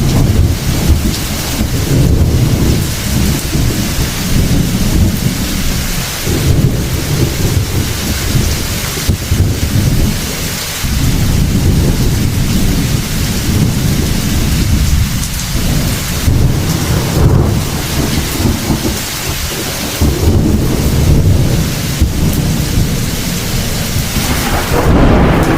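Heavy rain falling steadily while thunder rumbles almost without pause, swelling and easing every few seconds.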